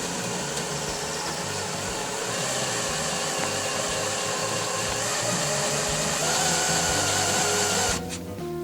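Electric drill running a spot weld cutter bit into the truck cab's sheet metal, a steady motor whine with cutting noise that stops abruptly about 8 seconds in. The spring-loaded bit wanders on the metal as it cuts.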